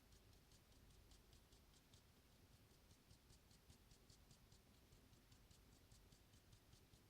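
Near silence with a faint, rapid, even ticking, about five ticks a second.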